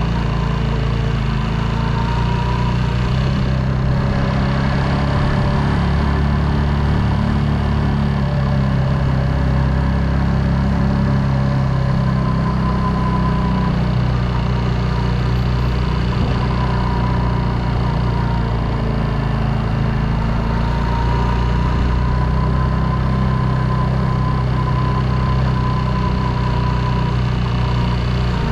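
Motorcycle engine running steadily while riding, its pitch rising and falling only slightly.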